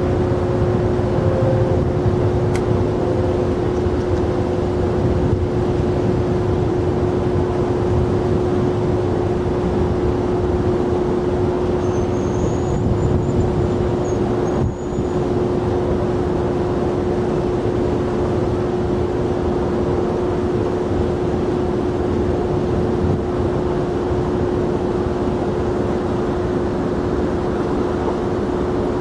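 Jet airliner engines running steadily, a continuous rumbling noise with a constant hum held at one pitch throughout.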